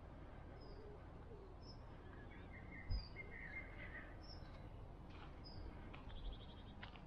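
Songbirds singing: a short high note repeated about once a second, a lower warbling phrase in the first half, and a quick trill near the end. Under it is a faint low rumble, with a thump about three seconds in.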